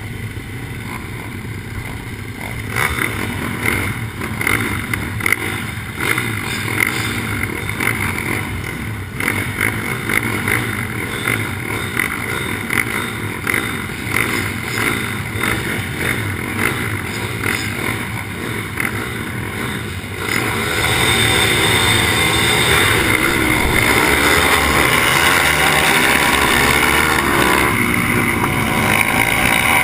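Pitbike engine revving and running hard while racing, heard from a helmet-mounted camera. It grows louder and choppier a few seconds in. About 20 seconds in it steps up again into a louder, steadier rush.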